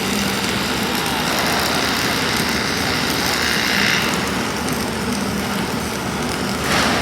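Self-shielded flux-core wire welding arc (Lincoln Innershield NR305) crackling and frying steadily, easing off about four seconds in, over a steady low hum. A brief louder noise comes near the end.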